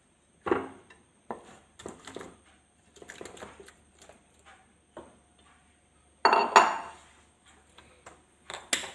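Kitchen utensils clinking and knocking against a pan as chicken pieces are put into the thick gravy, in scattered short strokes, with a louder run of knocks about two-thirds of the way through.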